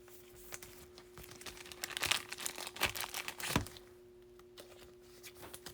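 Rustling and crinkling of baseball card packs and cards being handled, a scatter of soft scrapes and clicks that dies down a little past halfway.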